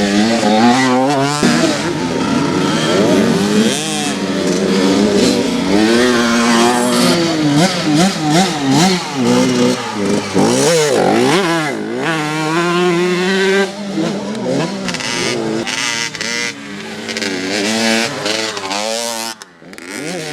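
Several motocross bike engines revving hard and easing off as they ride around the track, their overlapping pitches repeatedly rising and falling. The sound drops away briefly near the end.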